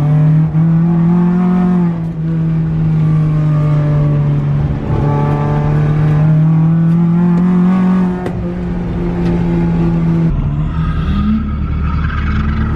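Four-cylinder engine of an AE86 drift car, a BEAMS 3S-GE, held at high revs on track, dipping briefly about two seconds and eight seconds in. Near the end the high engine note drops away into a lower rumble.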